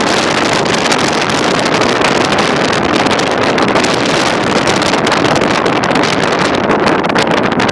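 Loud, gusty wind buffeting the microphone: a steady roar of rushing noise with constant flutter.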